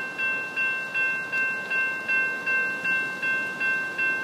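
Railroad crossing bell ringing in an even rhythm, about three strokes a second at a steady level, warning that a train is approaching.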